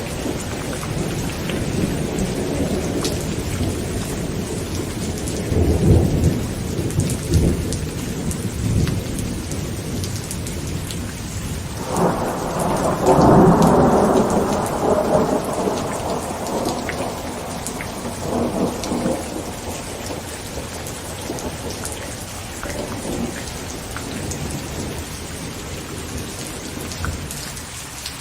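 Heavy rain pattering on a tent, with thunder rumbling low throughout. Near the middle a louder thunderclap breaks and rolls away over several seconds.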